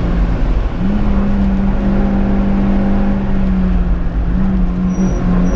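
Opel Corsa GSi rally car's engine heard from inside the cabin under load at high revs, with a brief drop in revs about a second in, then holding steady with short dips near the end.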